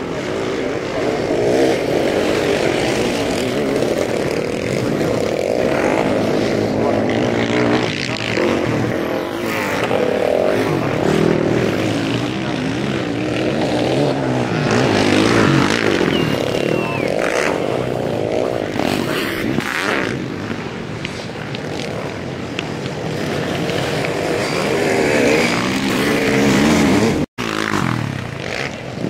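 Sidecar motocross racing engines revving, the pitch rising and falling over and over with the throttle as the outfits race around the track. The sound cuts out for an instant near the end.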